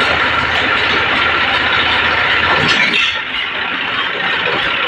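Massey Ferguson 1035 DI tractor's diesel engine running loud under load, its low rumble dropping away about three seconds in.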